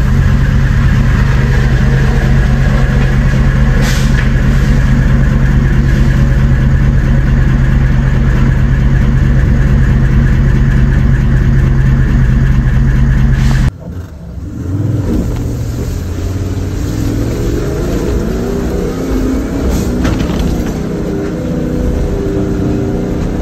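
Four-wheel-drive engine running steadily in low gear, loud from inside the cab. About 14 seconds in the sound cuts to an engine revving up and down, heard from further off.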